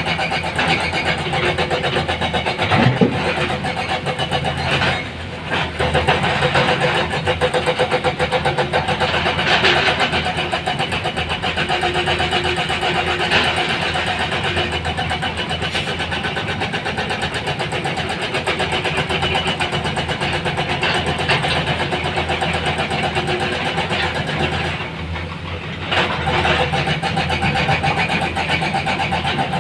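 Heavy diesel engine running steadily, with short dips in level about five seconds in and again near the end.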